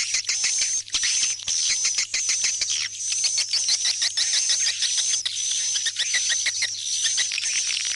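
Swiftlet calls: a dense, continuous chatter of rapid clicking trills over a high whistle that breaks off every second or so. This is a call track for luring swiftlets back to a swiftlet house. A low steady hum runs underneath.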